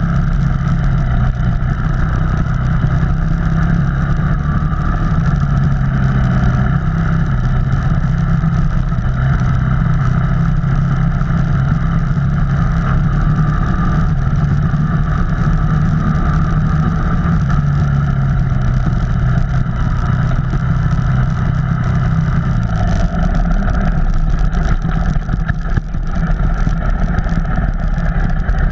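Off-road vehicle engine running at a steady speed while it is driven along a trail, with a noisy rumble over it. About 23 seconds in the engine note drops and becomes less steady, as if the throttle eases off.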